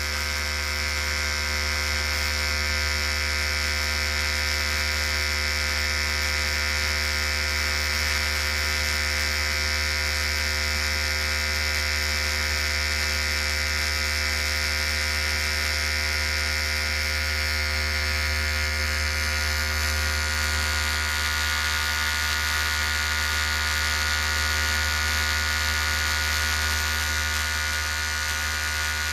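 Electric hair clippers running continuously with a steady buzz.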